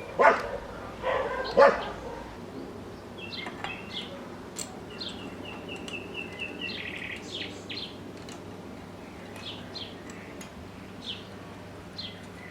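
A dog barking twice in quick succession near the start, then birds chirping, with a fast run of repeated notes in the middle.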